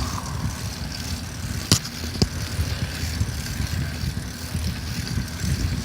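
Steady low rumble of wind and riding noise on a camera microphone carried on a moving bicycle, with two sharp clicks about two seconds in.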